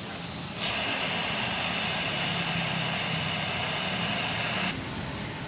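Welding arc on a scooter silencer pipe, hissing and crackling steadily, striking suddenly about half a second in and cutting off near the end.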